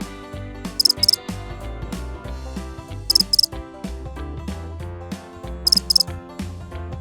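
Grasshopper stridulating: three short groups of rapid, very high-pitched chirps, about two and a half seconds apart, over soft background music.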